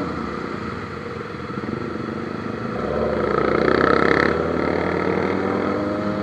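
Motorcycle engines running on the road, swelling louder around three to four seconds in and easing off after.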